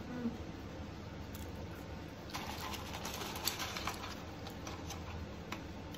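Close-up eating sounds: wet chewing and mouth clicks in a dense run from about two to four seconds in, with a few more clicks near the end, over a steady low hum.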